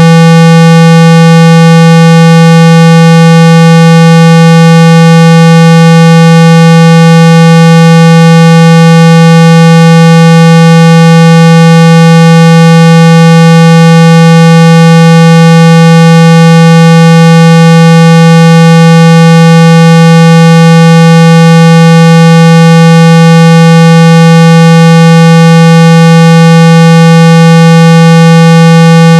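Loud, steady synthetic 165 Hz tone with a buzzy edge, held without change: a speaker-cleaning tone played to shake water and dust out of a phone's speaker.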